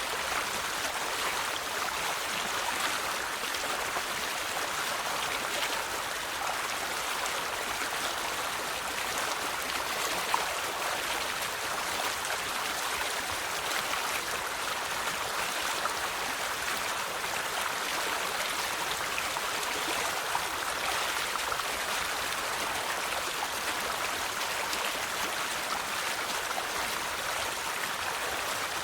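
River water flowing steadily over rocks, a continuous rushing with small splashes and babbling.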